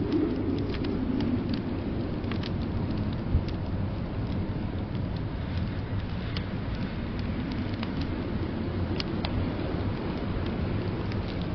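Wood fire crackling, with scattered sharp pops, over a steady low rush of storm wind.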